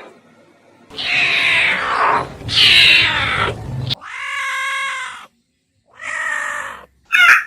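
A series of separate animal calls cut one after another: two loud, rough calls, then two steadier pitched calls, and a brief chirp near the end.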